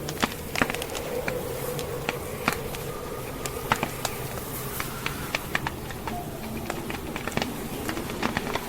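Wood logs burning in a fireplace, crackling with irregular sharp pops and snaps, a few louder than the rest. Under it a steady rushing of snowstorm wind.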